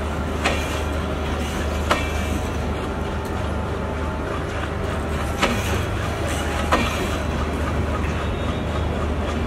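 Intercity passenger train rolling past on departure: a steady rumble from the coaches, with two pairs of sharp clacks as wheels cross rail joints.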